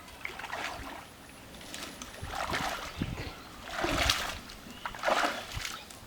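Water splashing and sloshing in a series of swishes, about five in all, the loudest about four seconds in.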